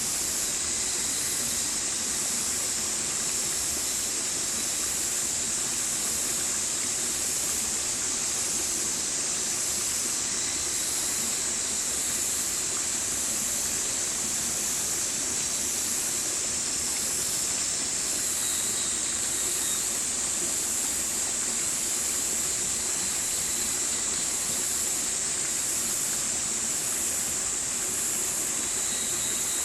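Stream water flowing steadily, a constant rushing hiss with no breaks. A faint regular pulsing, a little over once a second, sits high above it.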